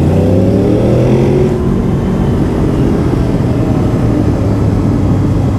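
Motorcycle engine running on the ride with wind noise, its pitch rising over the first second or so as it accelerates, then holding steady.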